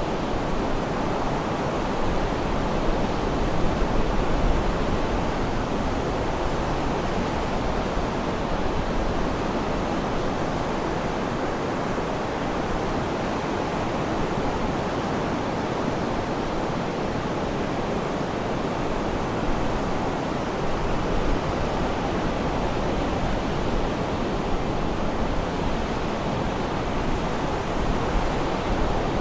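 Sea surf washing steadily, an even noise with no distinct breaks or bird calls.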